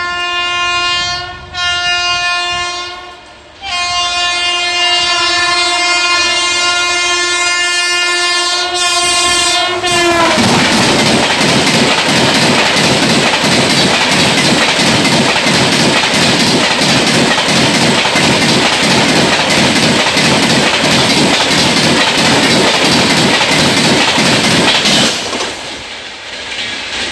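A train horn sounds, first a short blast and then a long held one whose pitch drops as the locomotive passes, about ten seconds in. After that, a passenger train's coaches run past at speed with loud, rhythmic wheel clatter over the rail joints, which falls away near the end.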